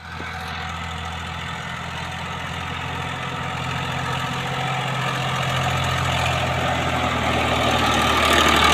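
Tractor's diesel engine running steadily at low revs, growing gradually louder.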